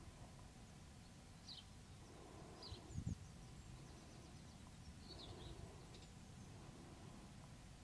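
Faint, scattered high chirps from birds over a quiet outdoor background, with a brief low thump about three seconds in.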